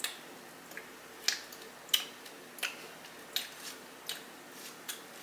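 Close-miked chewing of chicken wing meat: a string of sharp, wet mouth clicks and smacks, about one every half second to second.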